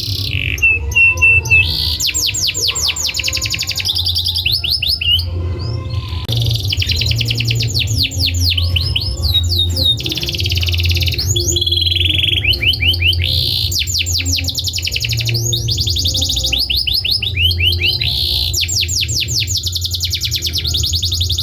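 Domestic canary singing a long, continuous song of fast trills and rapidly repeated notes, changing from one rolling phrase to the next with hardly a break. A steady low hum runs underneath.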